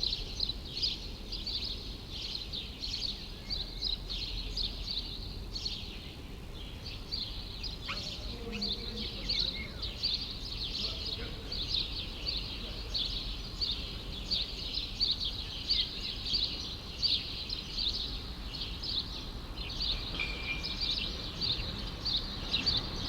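Birds chirping and twittering without pause, many short overlapping calls, over a steady low city rumble.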